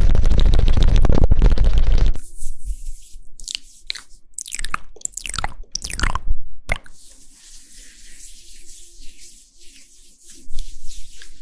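Close-miked ASMR mouth sounds: a loud, dense crackle that stops about two seconds in, then irregular wet clicks and smacks.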